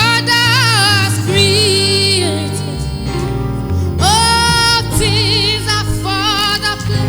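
Gospel worship music: a female voice singing long held notes with vibrato over sustained keyboard-style chords.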